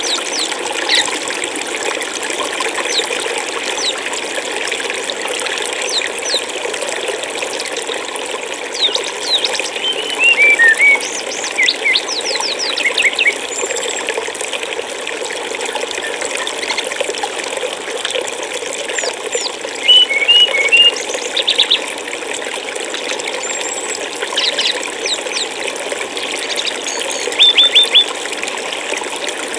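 Steady flowing water, like a stream, with small birds chirping over it; the loudest calls are quick runs of short descending notes that come a few times.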